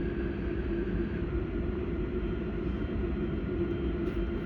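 Interior of an AM class electric multiple unit pulling away from a station: a steady running rumble with a constant hum. A fainter high whine steps down slightly in pitch about a second in.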